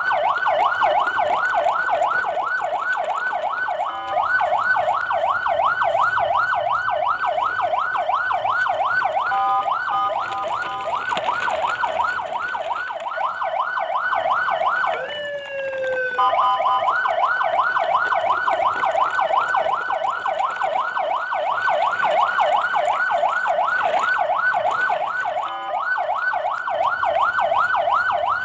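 Electronic siren in a fast yelp, warbling about four times a second. It switches briefly to a stepped two-tone pattern about a third of the way in, and gives a single long falling sweep about halfway through.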